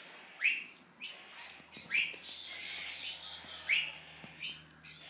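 Birds chirping: a series of short, sharp rising chirps repeated every second or so.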